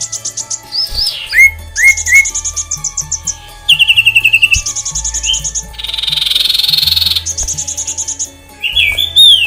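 Several aviary songbirds calling over one another: fast high trills, short slurred whistles falling in pitch, and one harsh rasping call about six seconds in.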